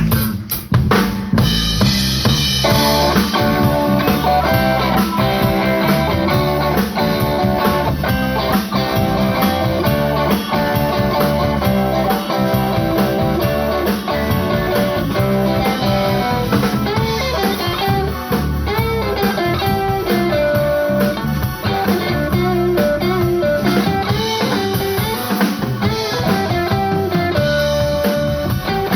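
Live band instrumental with electric guitar lines over a steady drum kit beat and bass, with sharp drum hits about a second in.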